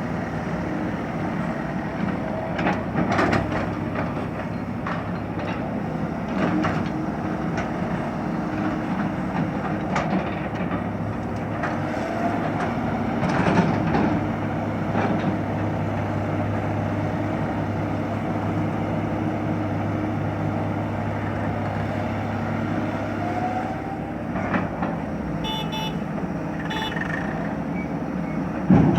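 Excavator's diesel engine running steadily under work, with scattered metallic knocks and a couple of short rising whines. A few short high-pitched beeps come near the end.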